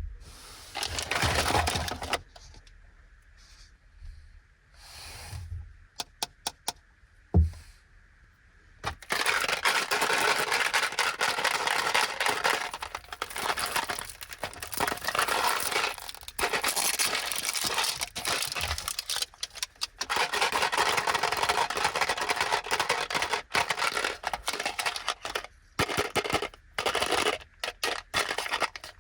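Plastic candy packaging being handled, crinkled and torn open, with a few sharp clicks and one loud knock before the dense crinkling sets in about nine seconds in.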